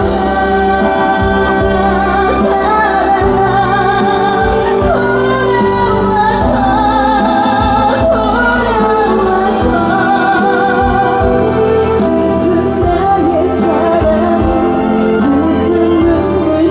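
A woman singing a trot song live over band accompaniment with drums, holding long notes with a wide vibrato.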